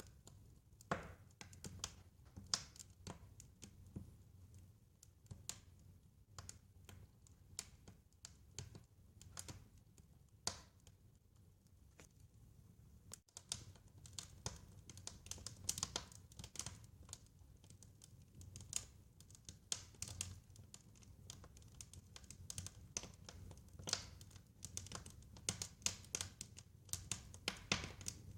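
Wood fire crackling, with irregular sharp pops and snaps over a faint low rumble. The snaps come thicker in the second half.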